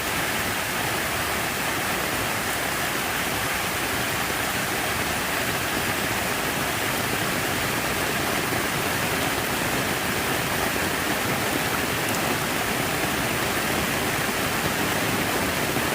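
Water falling and splashing in a steady, unbroken rush, like an artificial waterfall or fountain.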